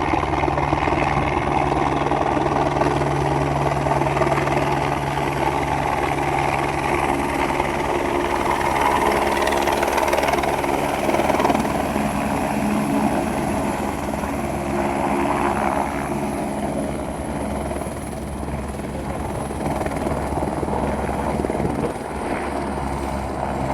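Helicopter running steadily, its rotor chopping rapidly over the engine's steady drone.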